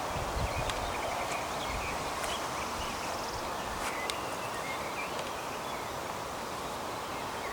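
Steady rain falling on the leaves of a tree and the grass around it, an even hiss, with a few soft low thumps in the first two seconds.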